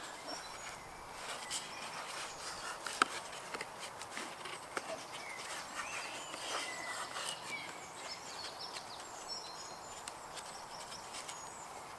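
Scattered small clicks and rustles of hands working with garden cord and a Swiss Army knife as a tied knot is finished and trimmed, over a quiet outdoor background with faint bird chirps.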